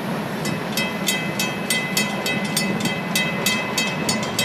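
Railroad grade-crossing bells ringing in a fast, steady run of strikes, then stopping near the end as the crossing clears behind the just-passed train. The low rumble of the departing freight train runs underneath.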